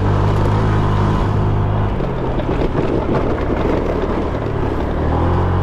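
Honda Click 125cc scooter's single-cylinder engine running under throttle while riding a rough dirt road. The engine note is steady for about two seconds, then rougher noise covers it in the middle, and it steadies again near the end.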